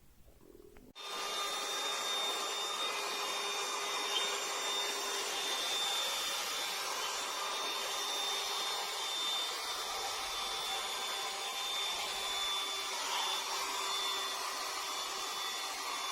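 Cordless handheld vacuum cleaner and dust blower switched on about a second in, its motor then running steadily with a high whine over the rush of air.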